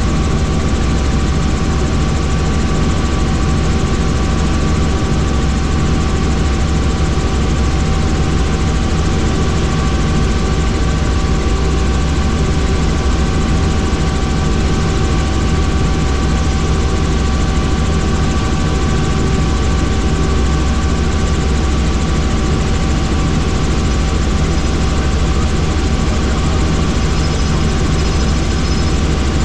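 Helicopter in steady flight: a loud, unchanging low drone with a steady whine over it.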